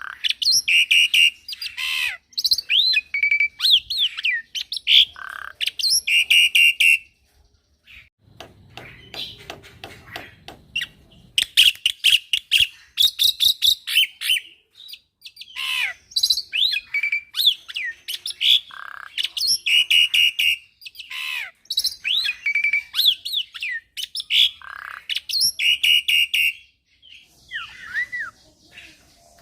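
A young black-winged myna (jalak putih) sings a varied, busy song of sweeping whistles, fast chirps and harsh rasping notes, full of mimicked phrases. The song breaks off about seven seconds in and starts again about four seconds later.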